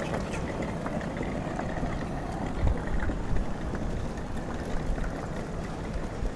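A train's low rumble and rushing noise at a station platform, with a few heavier knocks about two and a half to three and a half seconds in.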